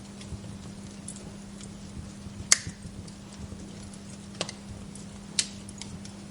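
Wood fire crackling, with scattered small ticks and three sharp pops of burning wood, the loudest about two and a half seconds in, over a steady low hum.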